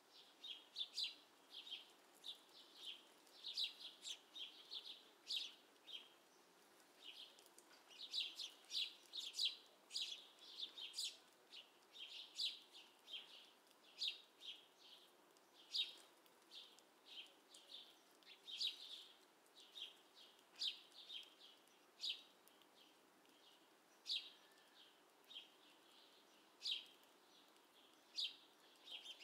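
Small birds calling: a faint, busy series of short, high chirps, several a second in clusters, going on throughout.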